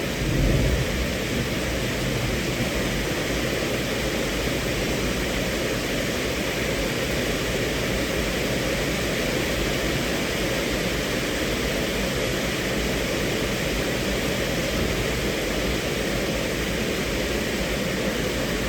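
Steady rain falling on a car's roof and windows, heard from inside the cabin. A brief low rumble of thunder comes in the first second.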